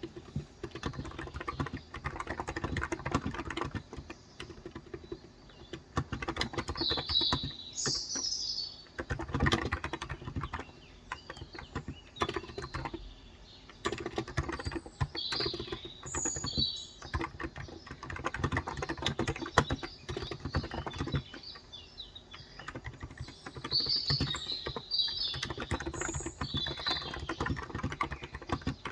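Fast typing on a Cox Endeavour electro-capacitive keyboard with 35 g switches, in bursts separated by short pauses. Birds chirp in short high calls at several moments.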